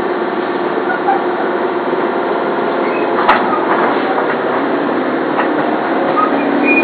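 Tobu 8000 series train's pneumatic door engines hissing as the sliding doors work, with a sharp knock a little over three seconds in.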